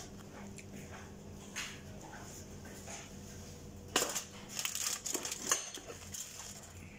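Close-up chewing of crispy fried chicken, with soft mouth clicks. About four seconds in comes a cluster of sharp crunching and crackling, the loudest part, which then dies away.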